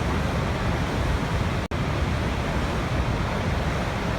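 Waterfall: a steady, even rush of falling water, heaviest in the low end, broken by a momentary dropout about a second and a half in.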